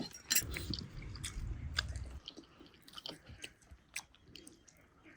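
A person eating, biting and chewing food close to the microphone, with many short crisp clicks and crunches. It is busiest in the first two seconds and thins out to sparse small clicks after that.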